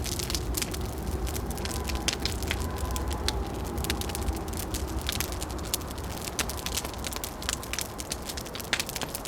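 Wood fire crackling with frequent sharp pops, over a low rumble of wind that eases off after about six seconds. A faint thin whistle of wind comes and goes in the first half.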